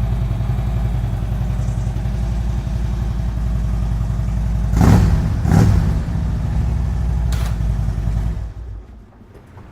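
Harley-Davidson Road King Classic's 96-cubic-inch V-twin idling through Rinehart slip-on mufflers. The throttle is blipped twice about five seconds in, then the engine sound cuts out near the end.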